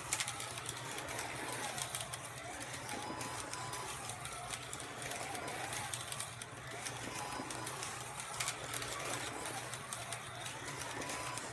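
Carrera Digital 132 slot cars running around the track, their small electric motors whining up and down in pitch as they speed up and slow, with an occasional sharp click from the track.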